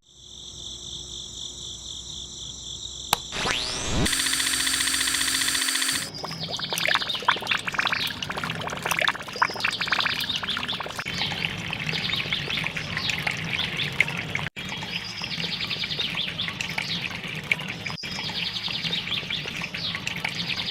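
A few seconds of steady electronic tones and a sweeping glide with a brief whoosh. Then birds chirping in repeated short bursts over a faint low steady hum.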